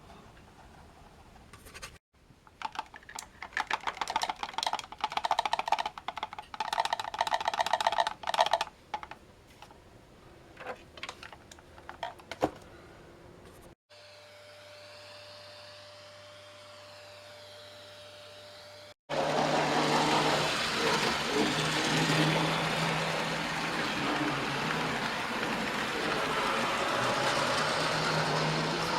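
Separate clips joined by cuts: a stretch of irregular clicking and rattling, then a few seconds of steady low hum. About two-thirds of the way in, the loudest part starts: a 00 gauge model train running steadily along the layout's track.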